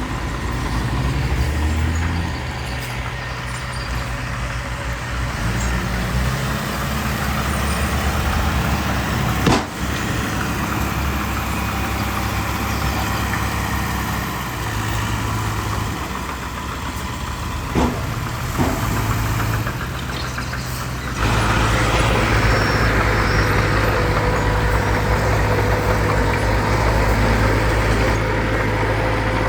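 Heavy diesel engines of dump trucks and a bulldozer running steadily, with a few sharp metallic knocks. The engine sound gets louder and higher about two-thirds of the way through.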